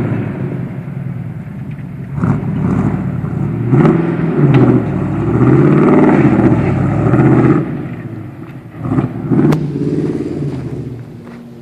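Small-block V8 engine of a lifted mud truck revving hard in repeated surges, its pitch rising and falling, dying down near the end.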